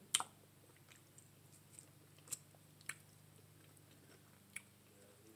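A person quietly chewing a mouthful of curried neck bones, with a few short sharp clicks, the loudest just after the start.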